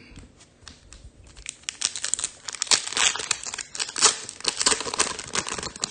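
Crinkly trading-card wrapper handled by hand: a dense, crackling run of crinkles that starts about a second and a half in and keeps going.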